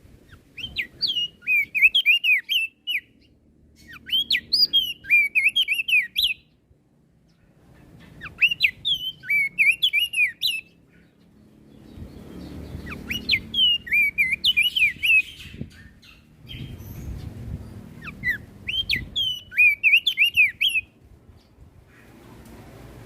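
Crested white-eye (opior jambul) singing: five bursts of rapid, high, chirping notes, each lasting about two to three seconds, with short pauses between.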